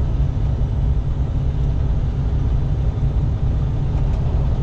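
Steady low rumble of an International LT semi truck driving, heard from inside the cab: engine drone and road noise.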